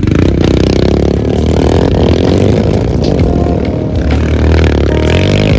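Several racing motorcycles' engines revving loudly together, their pitches shifting up and down throughout.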